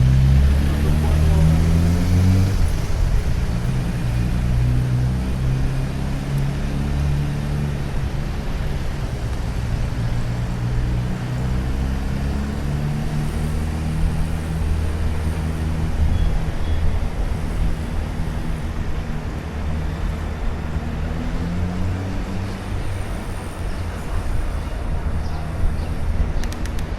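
Road traffic: a motor vehicle engine running close by, its pitch rising in the first few seconds as it accelerates, over a steady low traffic rumble.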